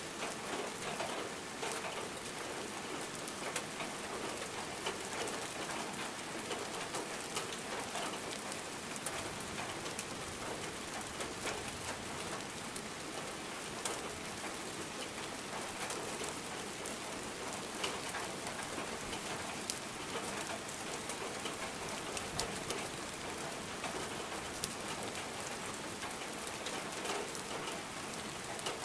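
Steady rain falling onto standing water: an even hiss of rain with many small single drop splashes scattered through it.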